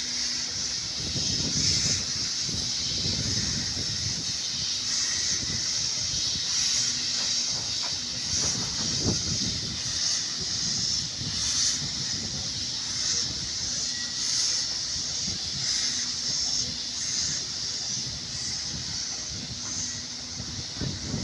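Steam locomotive hissing steadily while it shunts, with the low rumble of the train and engines underneath, heaviest about a second in and again near the middle.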